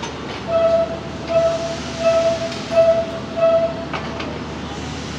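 Passenger coaches rolling past on the rails with a steady rumble, while a train horn gives five short, evenly spaced toots on one pitch; a single knock follows near the end.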